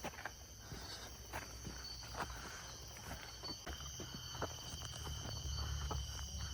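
Footsteps on a forest trail, an irregular run of soft crunches, over a steady high-pitched chorus of night insects such as crickets or katydids.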